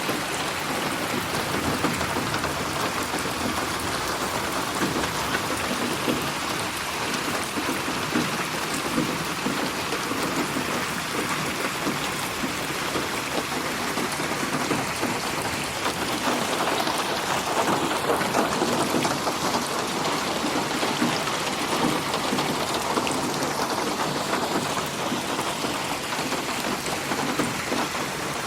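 Steady rain falling, a dense continuous hiss of drops that grows a little louder a little past halfway through, mixed as 8D audio that pans around the listener.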